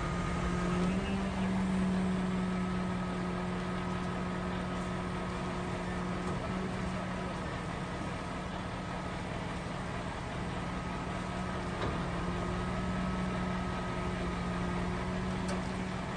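An engine or motor running steadily at a constant pitch, its note stepping up slightly about a second in.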